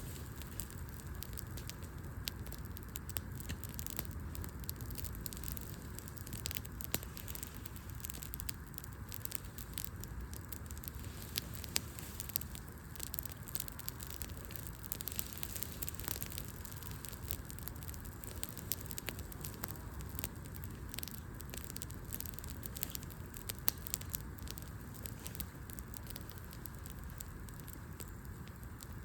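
Wood fire burning, with irregular sharp crackles and pops from the logs over a steady low rumble.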